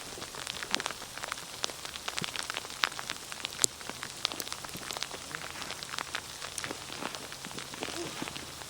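Sleet falling: many small, irregular ticks of ice pellets over a steady hiss.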